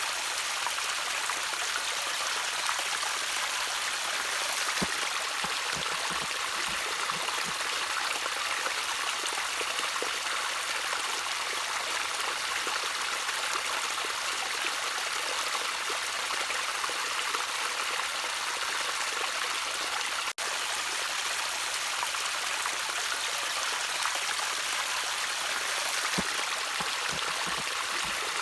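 Gently trickling stream: a steady hiss of running water, with a few soft low plops now and then and a momentary drop-out about two-thirds of the way through.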